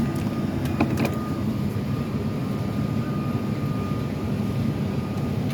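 Cabin noise of an MTR Tuen Ma Line IKK train running between stations: a steady low rumble with a faint steady whine, and a few short clicks about a second in.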